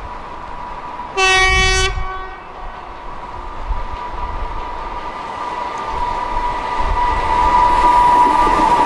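EP2K electric locomotive sounds one short horn blast about a second in. Then the passenger train rolls closer, with a steady high whine and rumble growing louder near the end.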